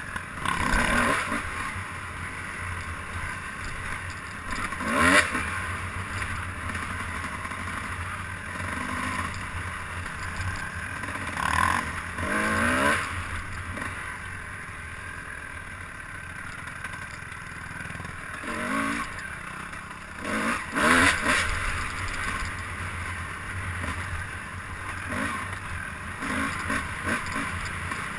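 Noise of a vehicle ride: a steady rushing with a loud jolt or rattle every few seconds.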